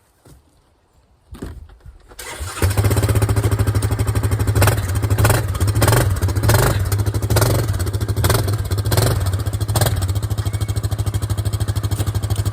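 A four-wheeler (ATV) engine starts about two seconds in and then runs with a fast, even low chug, with several short sharp accents over it.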